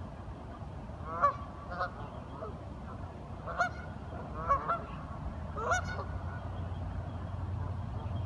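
Ducks calling in short honking quacks, about six calls spaced over several seconds, some in quick pairs, over a steady low rumble.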